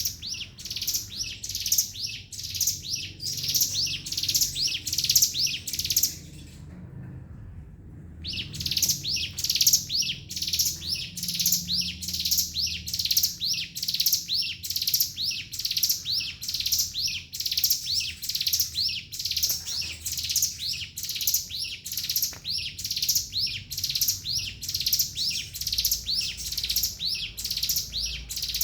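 Ciblek gunung, a prinia, singing a fast, continuous run of repeated high, rising notes, several a second, in the unbroken 'ngebren' style that bird keepers prize. The song pauses for about two seconds about a quarter of the way in, then resumes.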